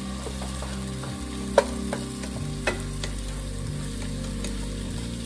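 Mushrooms and shallots sizzling in olive oil in a pot while a wooden spoon stirs them, with a sharp knock of the spoon against the pot about one and a half seconds in and a lighter one a second later.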